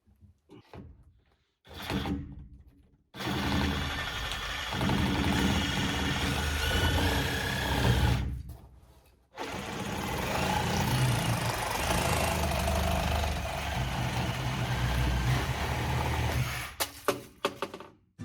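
A handheld power tool running in two long stretches of several seconds each, with a short pause between them. A few knocks and clicks come before and after.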